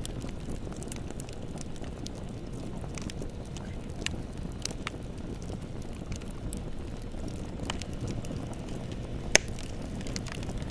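Bonfire burning with a steady low rumble and scattered crackles, and one sharp, louder pop near the end.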